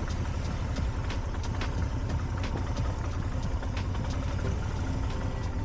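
A vehicle on the move in the rain: a steady low engine and road rumble, with scattered sharp raindrop taps throughout.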